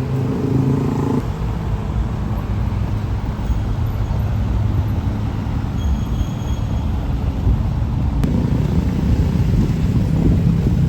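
Road traffic: motor vehicle engines running close by, a steady low rumble, with a clear engine note through about the first second.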